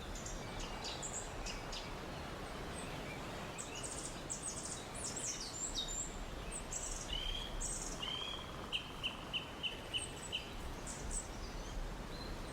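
Wild forest birds chirping and calling over a steady faint hiss of jungle ambience. In the second half one bird gives a run of about six short, evenly spaced notes.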